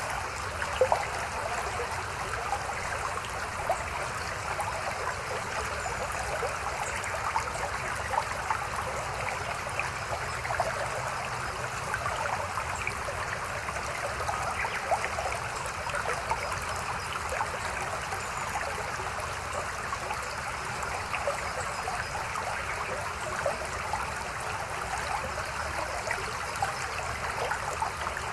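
Shallow mountain stream babbling over rocks: a steady rush of water with many small splashes and trickles, at a constant level.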